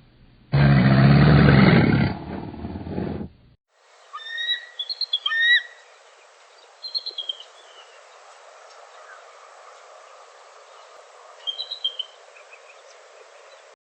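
A loud, low animal roar that cuts off about three seconds in. Then clusters of short bird chirps, a few at a time, over a steady hiss.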